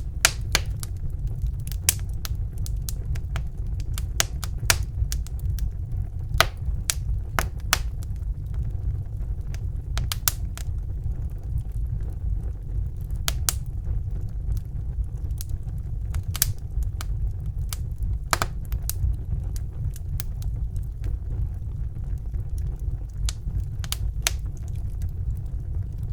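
Fire burning in a fireplace, crackling with many sharp, irregular pops and snaps over a steady low rumble of the flames.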